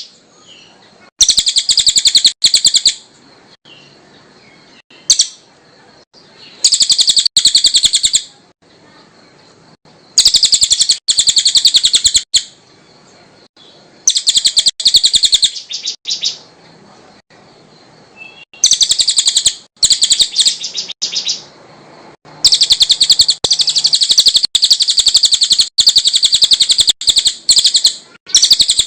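Cililin bird singing in repeated bouts of rapid, high-pitched chattering trills, each lasting one to a few seconds, with short pauses between; the last bout runs longest, about six seconds.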